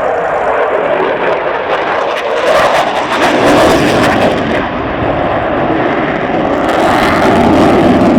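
Eurofighter Typhoon jet engines roaring in a loud, rushing noise during a flying display, swelling louder twice as the jet passes.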